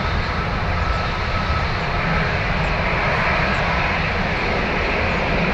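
Boeing 777-300ER's twin GE90 turbofan engines at takeoff thrust: a loud, steady jet roar with a deep rumble underneath, turning slightly brighter and hissier about two seconds in.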